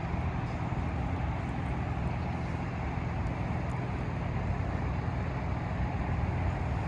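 Steady road traffic noise: a continuous hiss of passing vehicles with a low drone underneath, holding level throughout.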